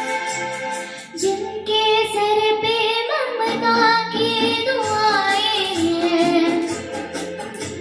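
A young girl singing a melodic Indian song over instrumental accompaniment, her voice entering about a second in with a wavering, ornamented line.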